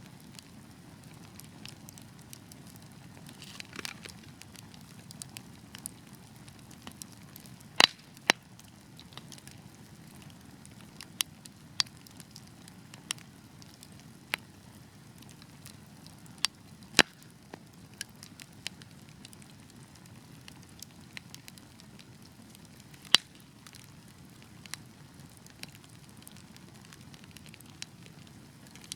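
Wood fire crackling: sharp pops at irregular intervals over a low, steady rumble of burning, the loudest pops about eight, seventeen and twenty-three seconds in. A brief hiss comes about four seconds in.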